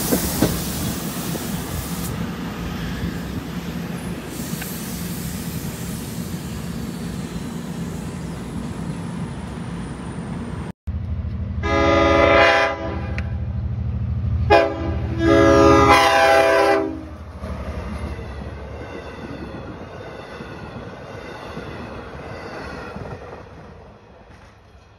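Long Island Rail Road push-pull train rolling past the platform, cab car first with its DM30AC dual-mode locomotive pushing at the far end: a steady rumble and hum. After a cut, a train's multi-note air horn sounds a short blast and then a longer, briefly broken one at a grade crossing, over the rumble of a passing train that fades near the end.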